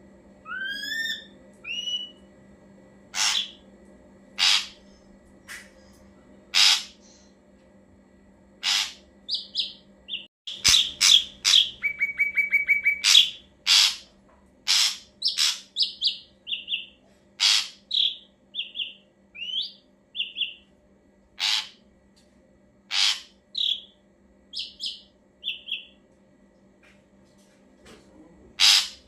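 Ashy drongo singing: a varied string of whistled notes, sharp harsh calls and rising glides, with a fast rattling trill about halfway through. A faint steady hum runs underneath.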